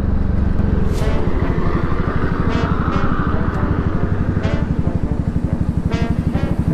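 Voge 300 Rally's single-cylinder engine running at low speed, a steady pulsing beat that becomes more distinct in the second half.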